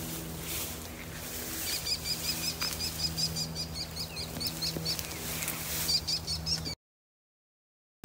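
A songbird singing a fast series of short, high, repeated chirps, about five a second, over a steady low hum. The sound cuts off to silence about a second before the end.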